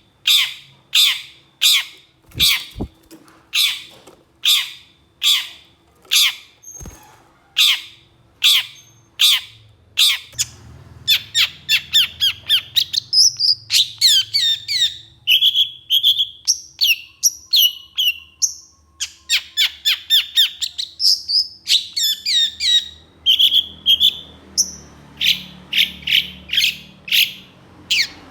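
Long-tailed shrike giving harsh, rasping calls about two a second, then breaking after about ten seconds into a fast, varied chattering song of quick chirps and short whistles. The harsh calls return near the end.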